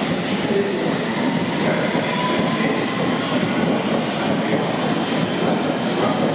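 Thameslink electric train running on the track: a steady rumble of wheels and rails with a light rattle and faint high tones.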